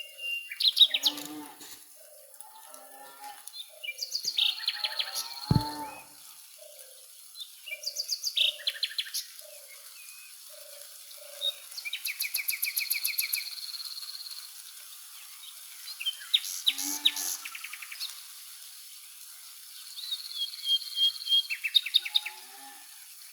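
Several songbirds singing and calling in a forest ambience: bursts of high chirps and rapid trills every few seconds, with a lower note repeated about twice a second through the middle and a brief low knock about five and a half seconds in.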